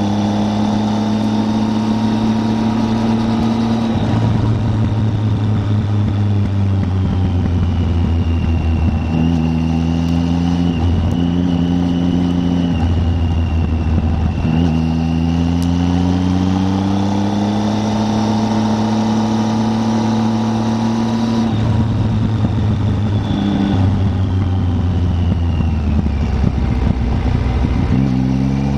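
Triumph Tiger 800's three-cylinder engine pulling the motorcycle along the road. The engine note drops and climbs again several times with gear changes and speed, and rises near the end.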